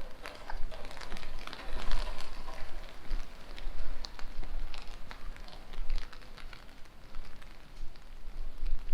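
Rain falling, with many close drops ticking irregularly over a steady patter and a low rumble underneath.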